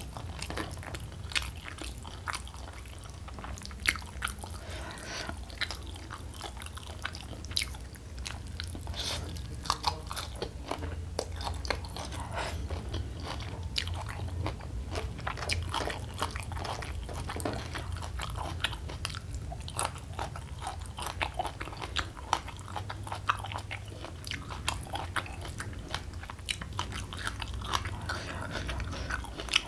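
Close-miked chewing and mouth sounds of a person eating spicy rica-rica chicken and rice by hand: a continuous run of small chewing clicks with a few sharper ones, over a steady low hum.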